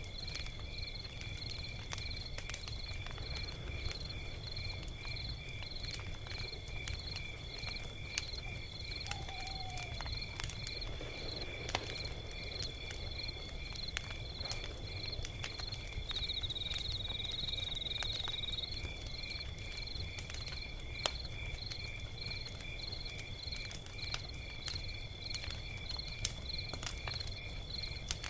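Log fire crackling with scattered sharp pops, over a steady chorus of crickets chirping in a fast, even pulse and a low rumble.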